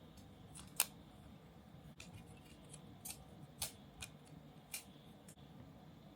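A small hand cutting tool snipping about six times at irregular intervals, short sharp cuts while parts of a model kit are trimmed at a workbench.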